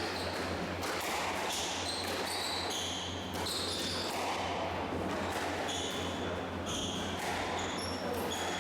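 Squash rally: the ball repeatedly struck by rackets and smacking off the court walls, with short high squeaks of players' shoes on the court floor, echoing in the court.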